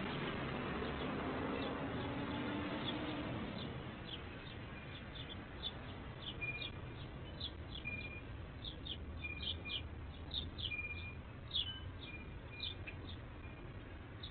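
Small songbirds chirping repeatedly in short, quick, high chirps, with a few short steady notes in between. A low background rumble fades out over the first few seconds, and the chirping gets busier after that.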